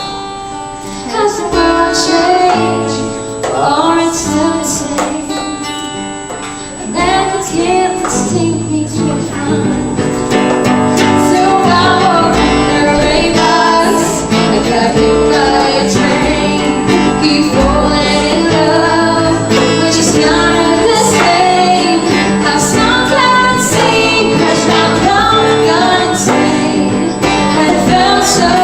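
Live acoustic music: a woman singing over acoustic guitar, growing fuller and louder about a third of the way in.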